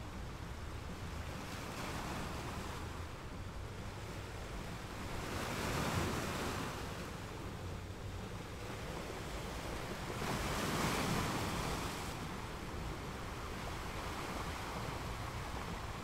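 Ocean surf breaking and washing up a sandy beach, a steady rush of water with two bigger waves swelling louder about six and eleven seconds in.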